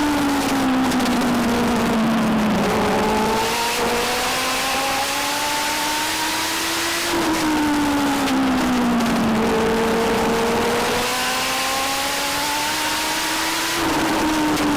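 A Legend race car's Yamaha four-cylinder motorcycle engine at racing speed. Its pitch falls away sharply at the start, again about halfway through and near the end, as the driver lifts for the turns, and each time climbs steadily back up under power on the straights.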